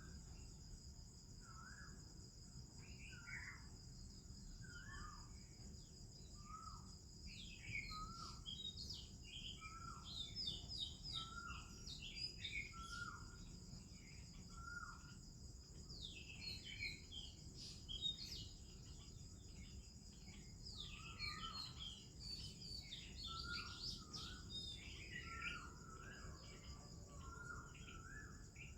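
Morning bird chorus of an Oriental magpie-robin and other birds: a short whistled note repeated about once a second under a busy mix of varied higher chirps and warbles. A steady high insect drone runs underneath.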